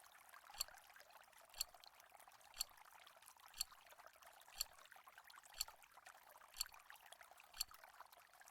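Countdown timer sound effect: a crisp clock-like tick once a second, with a faint steady hiss underneath.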